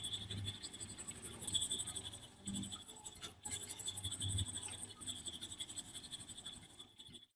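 Rapid, even scratching strokes of hand rust removal on metal parts, with a couple of dull knocks. The sound cuts off abruptly near the end.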